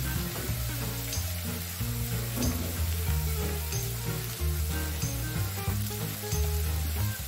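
Sliced onions and green chillies sizzling as they fry in a metal wok, with a few short clicks of a metal spatula against the pan.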